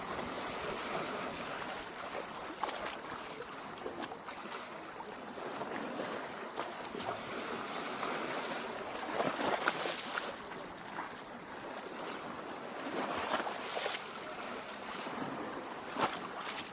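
Small lake waves lapping against the shore: a steady wash of water, with a few slightly louder splashes about ten, thirteen and sixteen seconds in.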